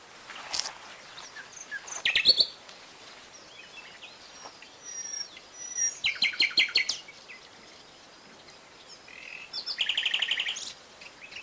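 Wild songbirds calling in short bursts of quick repeated chirps, with a fast trill near the end. A couple of brief crackles of brush come early on.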